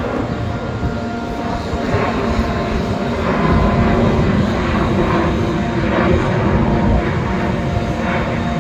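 Small aircraft engine running at a steady drone in flight, with loud wind rush over it.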